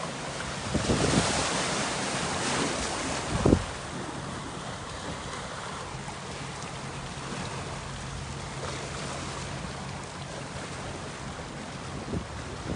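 Black Sea surf washing onto the shore, swelling about a second in, with wind buffeting the microphone. A sharp thump about three and a half seconds in is the loudest moment.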